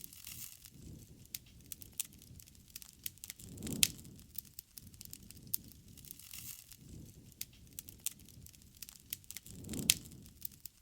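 Wood campfire crackling, with a steady scatter of small snaps over low swells of flame and two louder pops, about four seconds in and near the end.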